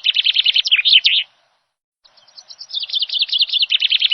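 Bird song: a fast run of high chirps that stops about a second in. After a dead-silent gap the same song starts again about two seconds in, an identical copy of the first, as from a looped recording.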